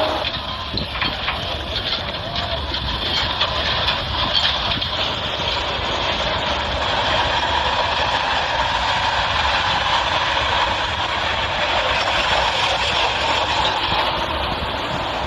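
Army truck engine running steadily, with a continuous rumble and mechanical noise that does not pause or change much.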